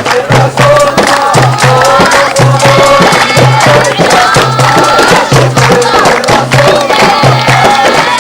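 Folk song sung by a group, with a steady rhythm of percussion strokes beneath the wavering melody.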